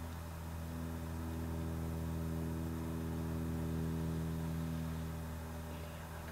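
A steady low machine hum with several even overtones, swelling slightly around the middle and easing off near the end.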